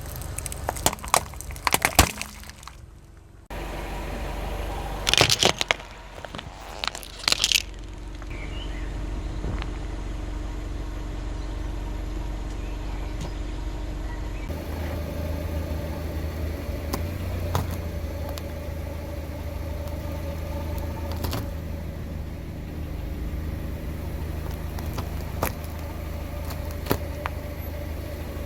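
Car tyre rolling over and crushing crunchy objects, with clusters of sharp cracks and snaps, then the car's engine running at a steady low hum with a few scattered crackles.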